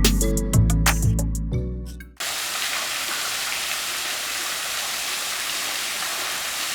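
Background music with plucked notes fades out about two seconds in, and a sudden cut brings in the steady rush of a waterfall.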